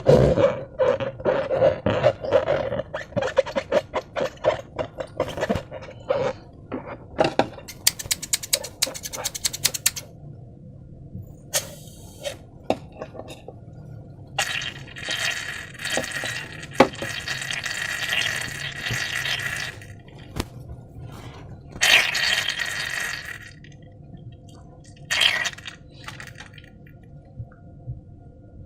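Slime being squeezed and worked by hand, with a fast run of sticky, wet clicks and squelches. These give way to longer hissing, scraping stretches, like slime being poured or dragged.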